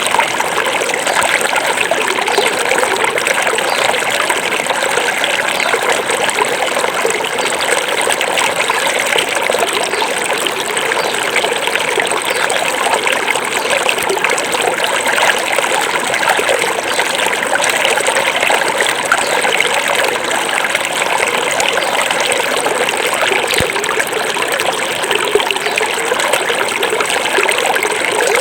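Small forest river flowing, a steady unbroken rush of running water.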